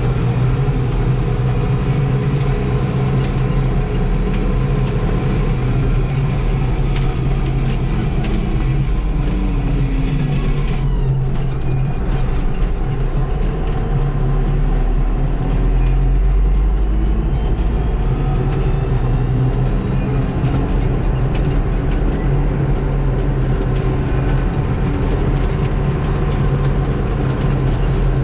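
New Holland T4030 tractor's diesel engine running steadily under load while driving. About eleven seconds in a falling whine ends and the higher hiss drops away, then the engine carries on steadily.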